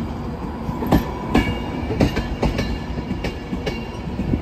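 Class 390 Pendolino electric train moving slowly past close by: a steady low rumble with sharp wheel clicks and knocks at irregular intervals, and a faint steady whine.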